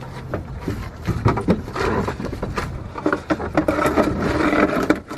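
Oil drain pan scraping and knocking on the ground as it is pushed into place under a car, in a run of irregular clatters.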